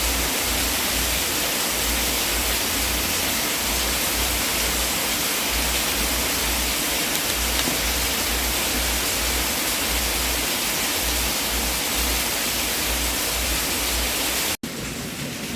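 Fireplace fire's steady rushing hiss with a low, pulsing rumble underneath. Near the end it cuts out for an instant and comes back quieter and changed in character.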